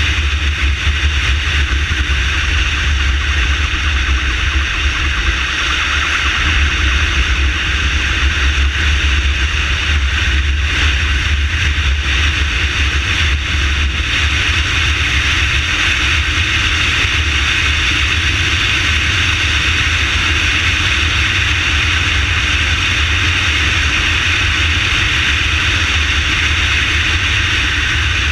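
Motorcycle ambulance in motion: a steady low engine drone under a constant rush of wind on the microphone.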